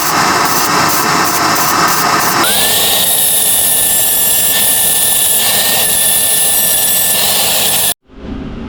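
Power tool working metal. Loud, dense noise throughout, with a steady motor whine coming in about two and a half seconds in. Near the end it cuts off abruptly and a different, quieter sound follows.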